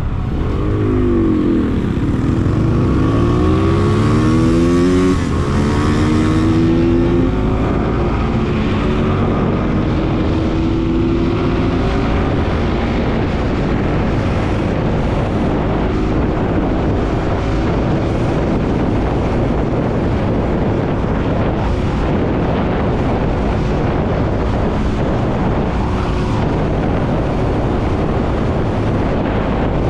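Bajaj Pulsar NS200 motorcycle's single-cylinder engine from the rider's seat: in the first few seconds its pitch dips and then climbs as it accelerates, then it runs steadily under a constant rush of noise.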